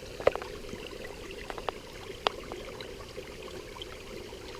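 A stream running steadily, with a few sharp clicks or knocks over it; the loudest comes about a third of a second in.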